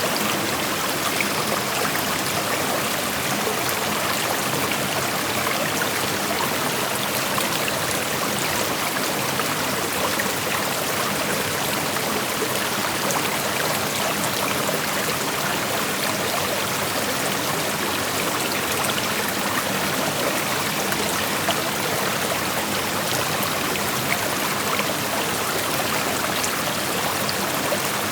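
Creek water flowing over rocks: a steady rushing hiss with small trickles and splashes, even in level throughout.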